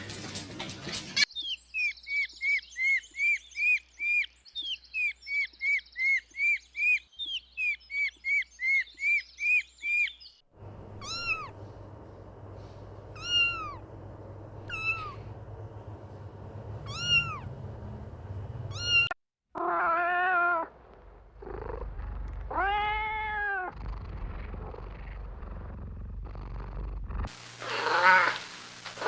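Cats and kittens meowing in several spliced clips. First comes a fast run of short, high calls at about two a second. Then single high mews follow a second or two apart, and then a few longer, lower meows.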